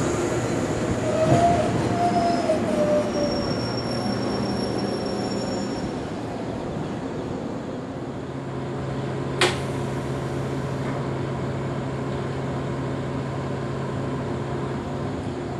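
485-series limited express train rolling slowly to a stop, its brakes and wheels squealing in thin, wavering high tones during the first few seconds. After that the standing train gives a steady low hum, with a single sharp click about nine and a half seconds in.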